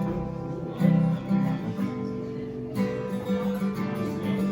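Acoustic guitar strumming chords, an instrumental passage of a song.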